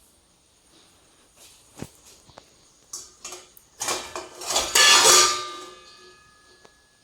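Dishes and the dishwasher's loaded rack clattering as they are handled: a few light clicks, then a louder clatter about four seconds in, with a faint ringing tone dying away after it.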